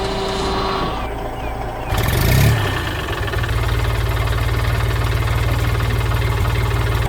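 Heavy vehicle engine that swells louder about two seconds in, then settles into a steady low chugging run with a fast, even pulse that cuts off abruptly at the end.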